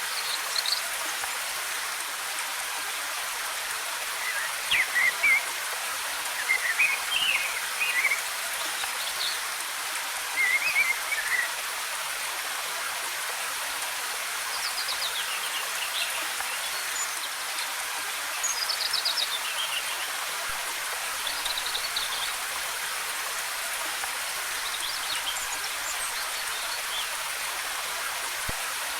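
Waterfall: a steady rush of falling water, with forest birds chirping in short, scattered bursts of high notes throughout.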